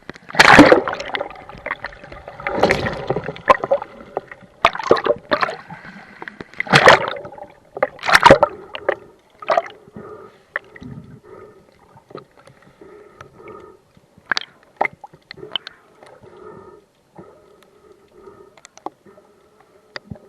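Water sloshing and gurgling around the camera in rough, choppy sea, with loud irregular splashes over the first half that settle into softer, repeated gurgles.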